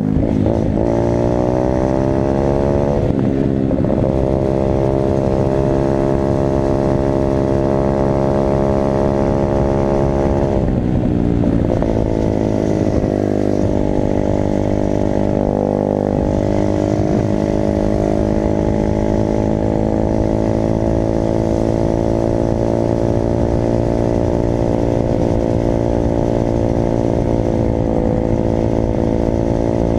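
Dirt bike engine running hard, its pitch climbing over the first few seconds, dropping about three seconds in and again around eleven seconds in, then holding steady.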